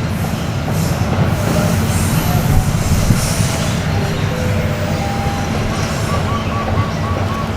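A long train running past close by: a steady rumble of wheels on the rails, with faint squealing tones from the wheels in the second half.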